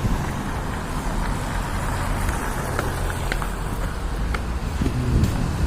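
Steady street noise with a strong low rumble and a few faint ticks.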